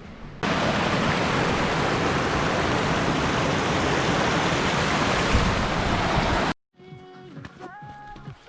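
A loud, even rushing hiss with no pitch to it. It cuts in abruptly about half a second in and stops suddenly past six seconds. Music with a melody follows near the end.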